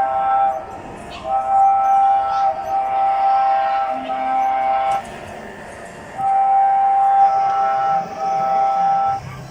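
Mini ride-on train's horn sounding a steady two-note chord in long blasts of one to several seconds, with short gaps between them.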